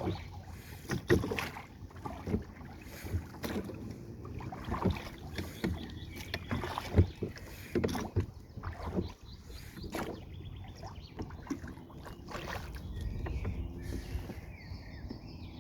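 Canoe paddle strokes dipping and splashing in river water, irregular, about one a second.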